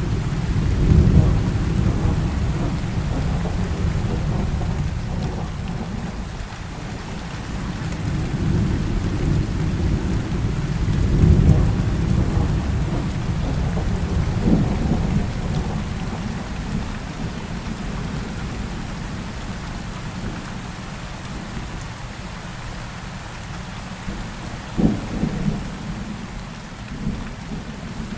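Heavy rain falling steadily through a thunderstorm, with deep rolling thunder. The rumbles swell about a second in and again about halfway through, and a shorter, sharper clap comes near the end.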